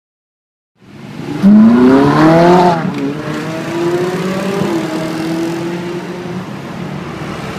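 A car engine accelerating hard, its pitch climbing steeply for over a second, then dropping at a gear change and holding a steadier, lower note over street traffic noise. It starts about a second in, after silence.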